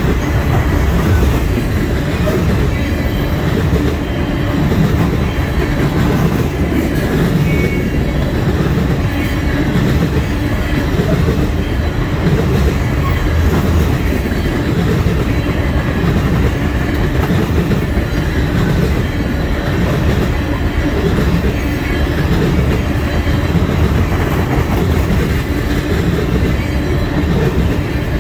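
Freight train of oil tank cars rolling past close by: a steady rumble of steel wheels on the rails with a rhythmic clickety-clack that repeats about every second and a half.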